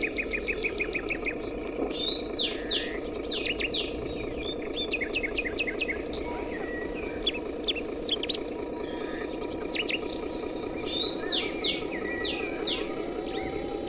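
Many birds chirping and calling in quick trills and short notes, over a steady low hum.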